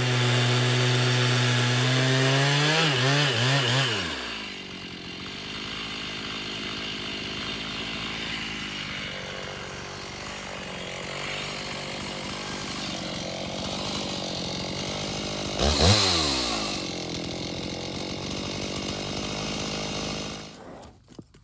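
Two-stroke chainsaw running at high revs, then dropping back to idle about four seconds in. It idles, gives one short rev about sixteen seconds in, and is shut off near the end.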